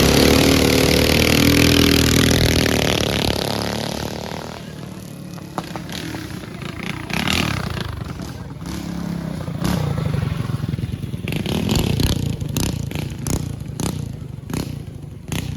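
Racing mini bike's small engine at full throttle, loud at first, its pitch dropping as it pulls away down the track and fading over about four seconds. Quieter engine sound and scattered sharp knocks follow.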